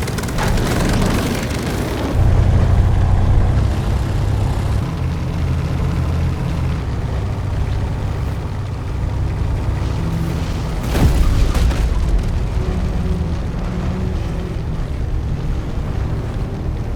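Action-film sound effects mix: a heavy, continuous low rumble with booms and a sudden loud impact about eleven seconds in.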